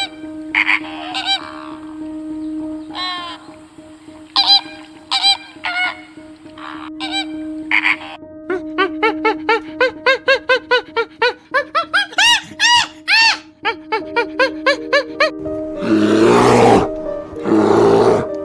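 A pen of ducklings peeping: scattered calls at first, then a quick run of high, arching peeps, about three a second. Near the end come two or three loud, harsh calls.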